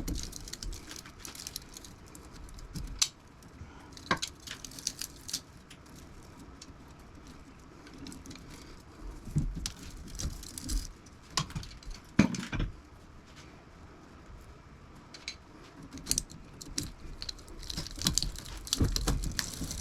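Irregular clinks, clanks and knocks of metal parts being handled and pulled apart while a window air conditioner is dismantled for scrap, with a few louder knocks scattered through.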